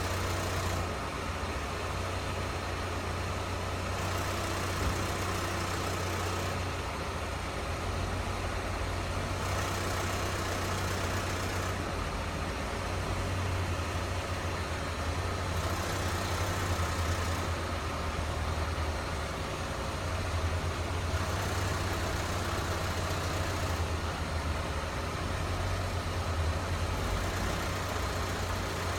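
Saab 9-3 SS idling, with a strange noise that changes as the steering wheel is turned. Under a steady low hum, a hiss in the upper range grows and fades every few seconds.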